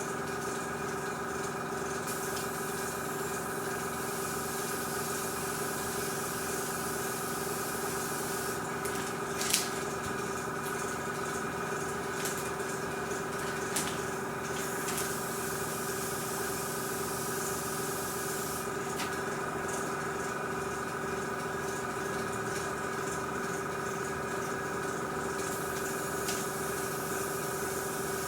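Airbrush compressor running with a steady hum, while the airbrush hisses in spells as it sprays a fine dusting of paint. A sharp click about nine and a half seconds in.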